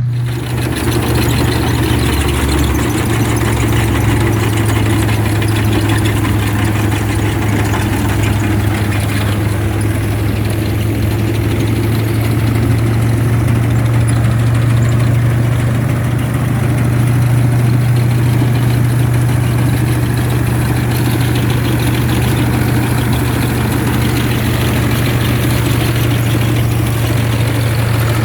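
Ford 3610 tractor's three-cylinder diesel engine running steadily at an even speed, a constant low drone.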